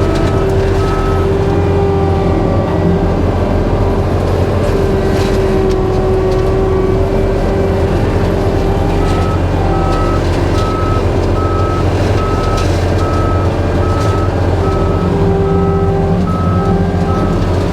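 Skid steer's engine running steadily with the forestry mulcher attachment, its back-up alarm beeping rapidly, about two to three beeps a second, for the first second and again from about halfway on as the machine reverses.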